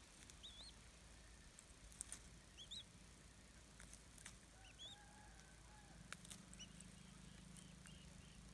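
Faint, short, high bird chirps, each a quick rising-and-falling note, repeated every second or so, with a few sharp clicks among them.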